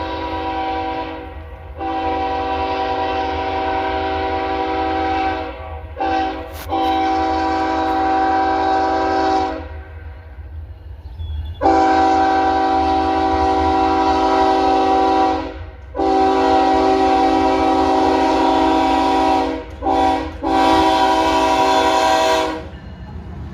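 Diesel locomotive air horn on a CPKC intermodal train, a chord of several notes, blowing the long-long-short-long grade-crossing signal twice in a row. Underneath runs the steady low rumble of the passing train.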